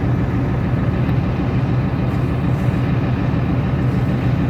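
Caterpillar motor grader's diesel engine running steadily after being started, a constant low rumble.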